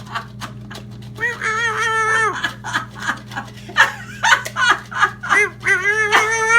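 High-pitched squealing calls, two of them held for about a second each, with quick squeaks and chirps between them, over a steady low hum.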